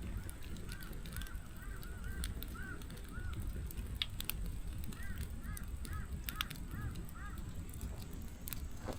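Wood fire burning with a low rumble and irregular sharp crackles and pops from the logs. Two runs of short honk-like calls sound faintly through it, the first about a second in, the second around five seconds in.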